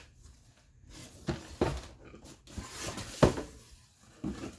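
A cardboard shoe box being handled and opened: a few knocks and thuds of the box and lid, the loudest about three seconds in, with light rustling between them.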